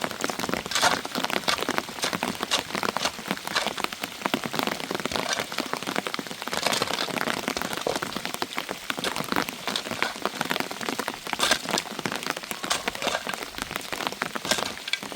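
Heavy rain pelting a hard surface: a dense, irregular patter of many sharp drop hits over a steady hiss.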